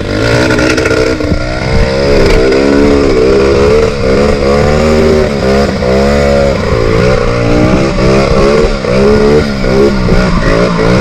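Trail motorcycle engine revving hard, its pitch rising and falling again and again as the throttle is opened and closed.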